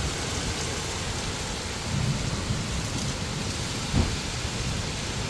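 Heavy thunderstorm rain pouring steadily, with low thunder rumbling in from about two seconds in and a sudden low thump about four seconds in.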